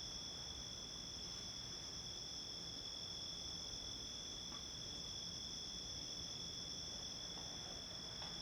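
Summer-night insect chorus: a steady, unbroken high-pitched trill with two pitches, one higher than the other.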